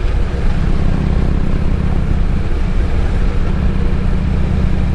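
Harley-Davidson Road King's V-twin engine running at a steady cruise, its low exhaust note even throughout.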